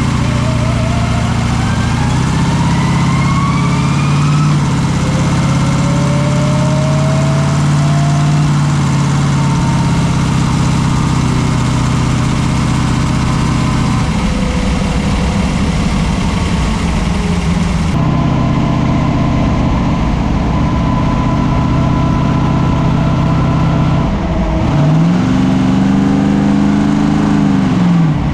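Car engine running steadily, with a few rising whines in the first few seconds. Near the end the engine revs up once and back down.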